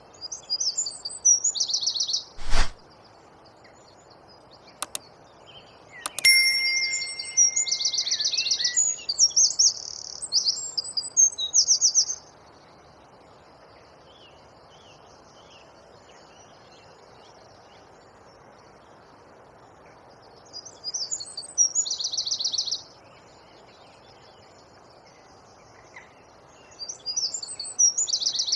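A wren singing in bouts of rapid, high trills: four bursts of song separated by pauses of several seconds. A loud sharp click comes a couple of seconds in, with two fainter clicks a few seconds later.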